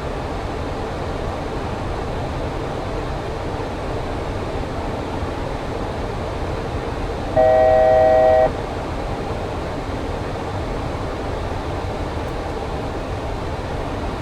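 Steady rushing noise in the flight deck of a Boeing 737 in flight. About halfway through, a single steady electronic tone sounds for about a second and is the loudest thing heard.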